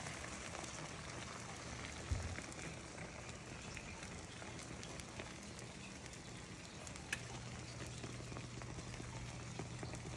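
Egg and vegetable omelette sizzling faintly in a nonstick frying pan, with a soft thump about two seconds in and a short click near seven seconds.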